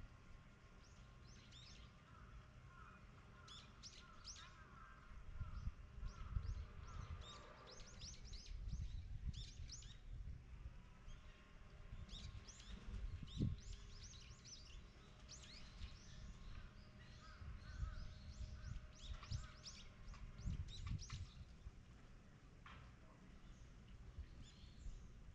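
Small birds chirping, many short high calls in quick succession, over a faint uneven low rumble.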